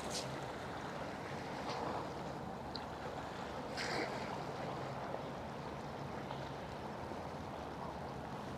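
Harbour ambience: a boat's engine humming low and steady over water and wind noise, with a few short faint sounds around two and four seconds in.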